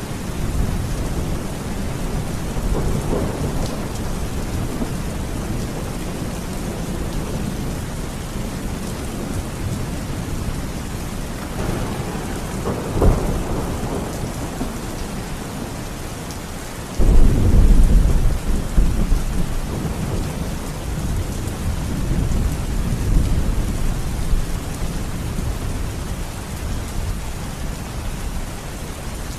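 Thunderstorm: steady rain with rolling thunder. There are low rumbles early and before the middle, and a sharp crack just before halfway. The loudest event comes a little past halfway: a sudden heavy thunderclap that rumbles off over several seconds.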